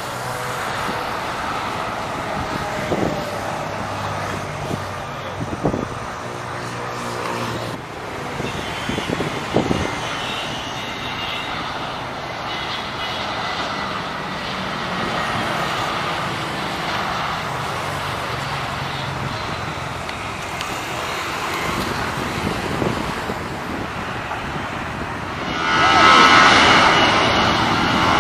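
Airliner jet engines: a steady distant rumble with a few scattered knocks, then about 25 seconds in the engine noise swells sharply into a loud high whine as a plane comes close.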